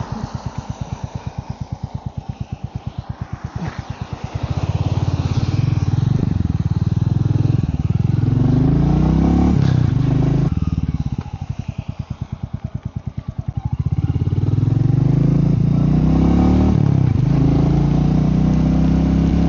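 Royal Enfield Meteor 350's single-cylinder engine, heard from the rider's seat. It pulses slowly at low revs for about four seconds, then pulls away with rising and falling pitch through the gears. Around halfway it drops back to low, slow pulsing, then accelerates again.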